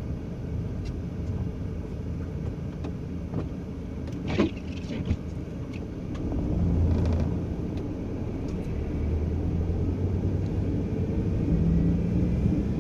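A vehicle's engine running and its tyres rolling, heard from inside the cab while driving slowly on a snow-covered street. The engine note swells about six seconds in and again near the end. A short sharp click about four seconds in is the loudest single sound.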